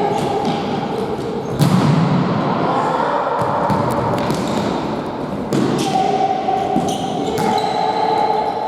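Futsal ball being kicked and bouncing on a sports-hall floor, with several sharp thuds, the strongest about one and a half seconds in, over echoing players' voices in the hall.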